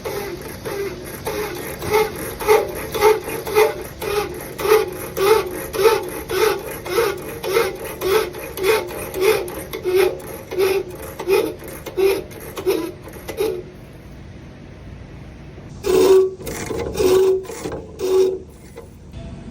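Rasping strokes by hand on copper pipe, about two a second, each with a faint metallic ring. They stop about two-thirds of the way in, then a few more strokes come near the end.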